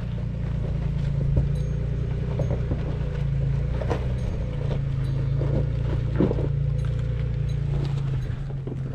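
Nissan Xterra engine running low and steady while crawling slowly over rocks, with a few brief knocks and creaks scattered through it.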